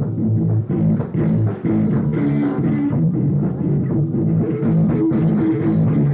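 Rock band playing live: guitars, bass and a drum kit keeping a steady beat.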